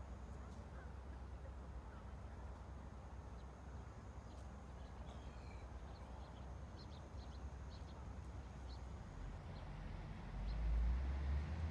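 Steady outdoor ambient noise with a low rumble, a few faint short high chirps in the middle, and a louder low rumble swelling and fading near the end.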